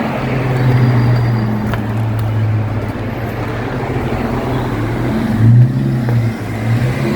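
Road traffic: a motor vehicle's engine running close by as a steady low hum over tyre and road noise, swelling briefly about five and a half seconds in.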